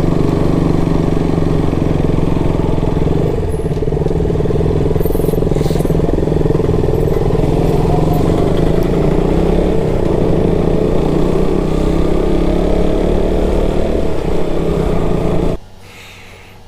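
Single-cylinder motorcycle engine running at a steady cruise as the bike is ridden. It cuts off abruptly near the end.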